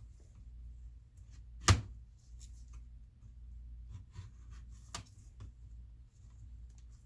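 Hands handling plastic laptop parts of a Dell Inspiron 15-5559 being taken apart: scattered light clicks and taps, with one sharp click a little under two seconds in and another about five seconds in, over a faint low hum.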